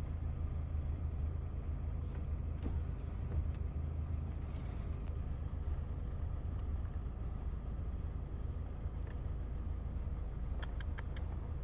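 Vehicle engine idling: a steady low hum, with a few light clicks near the end.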